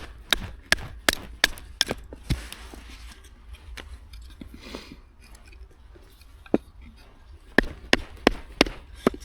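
Knife chopping on a wooden cutting board: quick, even strokes about three a second, a pause of several seconds, then another run of chops near the end.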